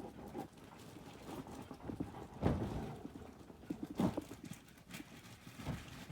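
Handling of a shipped package: irregular knocks and rustles, the loudest about two and a half and four seconds in.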